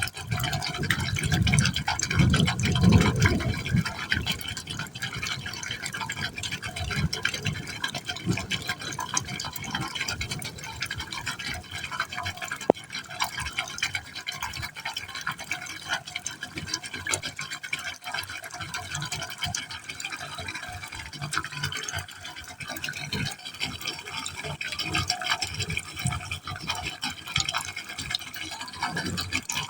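Water falling into a pipe hole, splashing unevenly without a break, louder and deeper for a few seconds near the start. A single sharp click near the middle.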